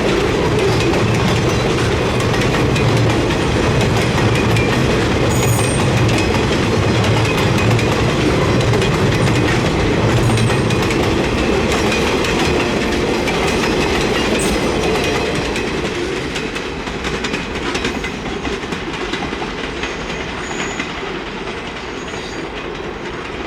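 A freight train rolling past, its wheels clacking over the rail joints, growing quieter over the last several seconds as it moves away.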